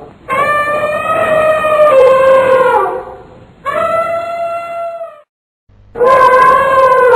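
Elephant trumpeting: three loud, brassy calls in a row. The first is long and drops in pitch at its end, the second is shorter and steady, and the third starts after a brief silence.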